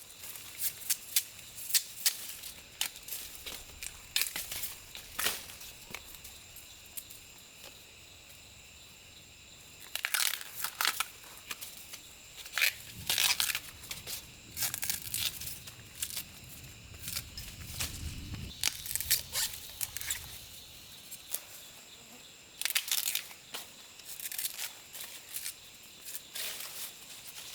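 Plant material being handled: irregular rustling, tearing and sharp snapping of dry leaves and stems, with heavier crunching bursts around the middle. A faint steady high-pitched hum sits underneath.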